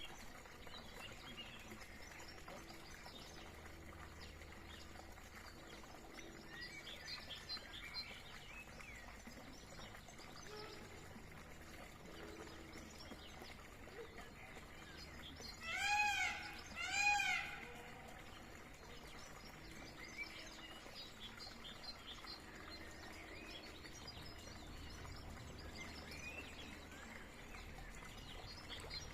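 Faint, scattered bird chirps. About sixteen seconds in come two loud calls a second apart, each rising and then falling in pitch.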